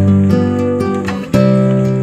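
Background music: an acoustic guitar strummed and plucked, with a new strummed chord about a second and a half in.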